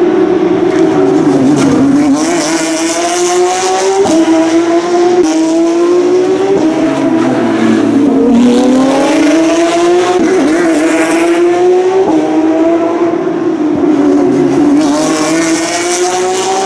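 Porsche 911 GT3 Cup race cars' flat-six engines running hard, loud throughout, the engine pitch climbing again and again and dropping at each gear change.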